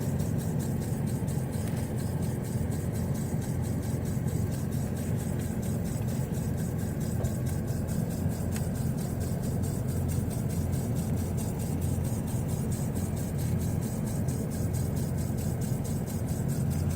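Rapid, even ticking from behind the glove box of a 2000 Ford Ranger, keeping pace with the AC blower fan, over the steady hum of the 3.0 V6 idling inside the cab.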